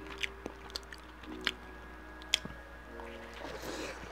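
Close-miked wet chewing of a juicy bacon cheeseburger, with squishy mouth sounds and scattered sharp lip and tongue clicks. There are a couple of short low hums with a full mouth.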